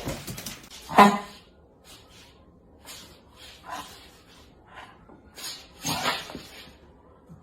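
A dog barking: one loud bark about a second in, then a few fainter short sounds.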